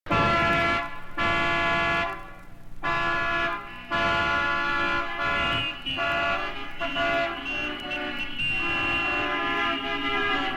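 Vehicle horns sounding in a run of long blasts with short breaks between them. Each blast is a held chord of several tones.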